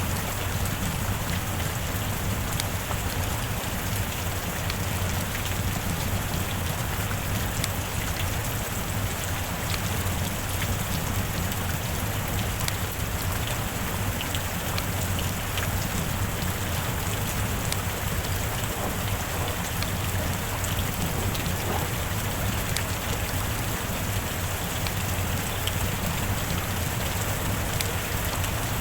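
Heavy rain falling steadily, a dense even hiss with many scattered sharp drop ticks.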